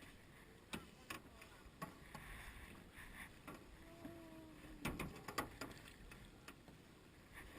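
Paddles knocking and clicking against a canoe's hull and gunwales as it sits on the water, a few scattered sharp knocks with the loudest about five seconds in.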